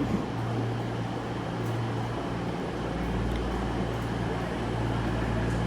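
Diesel engines of a CrossCountry Class 220 Voyager unit running steadily as it stands in the platform, a steady low drone with a slight swell about three seconds in.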